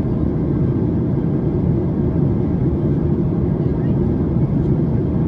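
Steady low rumble of cabin noise inside a Boeing 737-800 in cruise: engine and airflow noise heard from a window seat.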